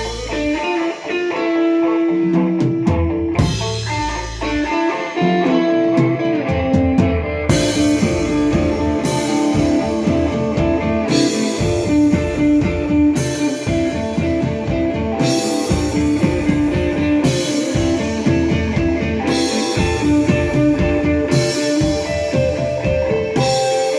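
Live rock band playing an instrumental passage on electric guitars and drum kit. From about a third of the way in, the drums strike hard accents about every one and a half seconds.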